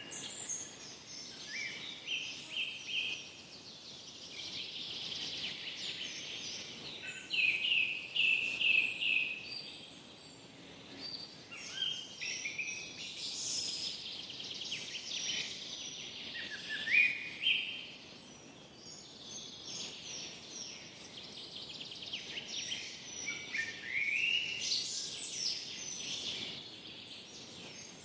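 Forest ambience of songbirds singing short chirping and warbling phrases, one every few seconds, over a faint steady hiss.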